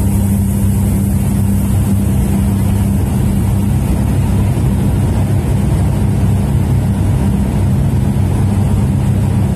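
De Havilland Otter floatplane's engine and propeller running at high power for takeoff: a loud, steady, low drone whose tone turns slightly rougher about two seconds in.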